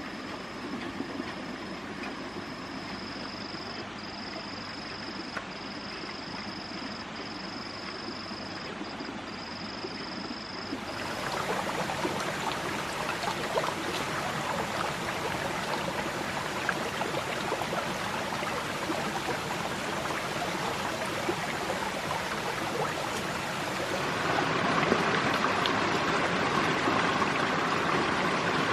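Steady rushing noise of running water. It shifts abruptly twice, about a third of the way in and near the end, becoming louder and brighter each time. A thin, high, steady whine breaks off now and then during the first part.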